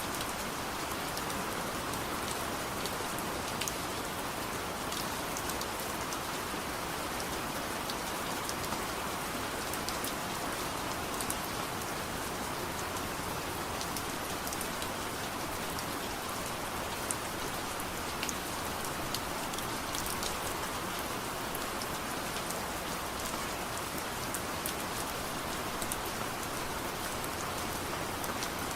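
Steady soft rain: an even hiss with scattered sharp drop ticks.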